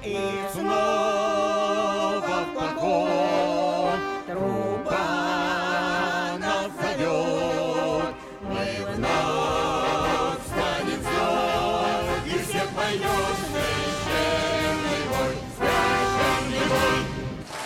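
Choir singing over an orchestra with brass, holding long notes with vibrato, until the music stops near the end.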